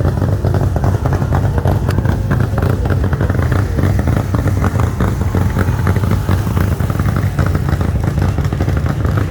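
A loud vehicle engine running steadily at idle, with a rapid pulsing beat and no revving.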